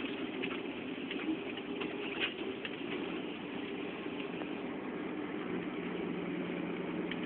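Scania truck's engine running steadily while the truck drives along a dirt road: a low, even drone with scattered light knocks and rattles.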